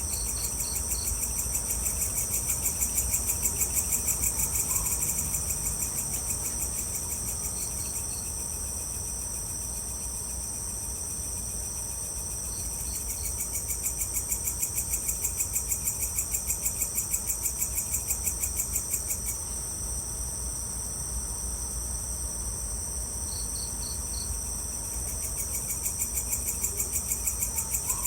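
Evening chorus of crickets and other insects. A dense, fast-pulsing high trill runs throughout, a lower pulsing trill comes and goes, and a short group of three or four chirps repeats every few seconds, over a faint low rumble.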